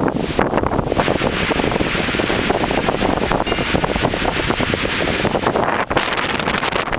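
Strong blizzard wind blowing hard and buffeting the microphone in a loud, continuous rush, with a brief lull about six seconds in.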